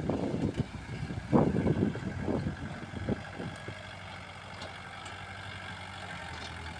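Kubota L47 tractor loader-backhoe's diesel engine running steadily, with a few irregular louder, rougher bursts in the first three seconds.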